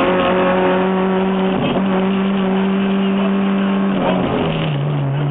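Rally car's engine heard from inside the cockpit, pulling hard at high revs on a stage. The note breaks briefly twice, about two seconds and four seconds in, for gear changes, settling lower after the second.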